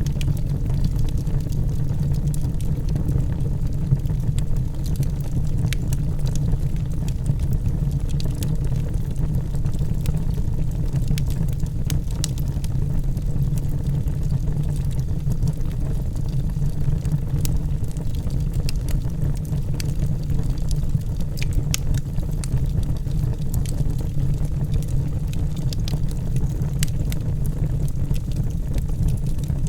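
Logs burning in a fireplace: a steady low rumble from the fire with many scattered sharp crackles and pops.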